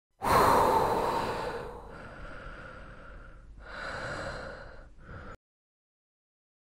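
Eerie horror sound effect: a sudden loud hissing rush that fades, swells again about four seconds in, and cuts off abruptly.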